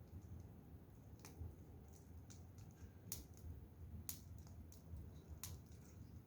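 Wood fire crackling: sparse, sharp pops, roughly one a second, over a faint low rumble.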